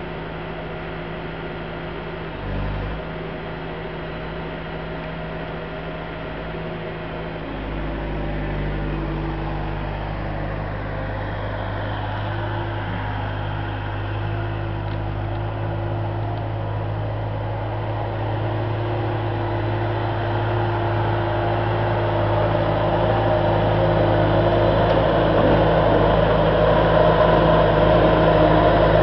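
An engine running steadily, its low hum changing pitch about seven seconds in, then getting gradually louder.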